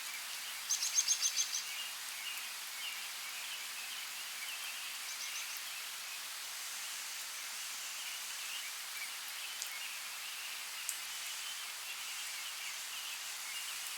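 Steady rain hiss. About a second in, a bird calls a quick run of about seven high notes, with a shorter, fainter run near five seconds, and a few sharp drip-like ticks later on.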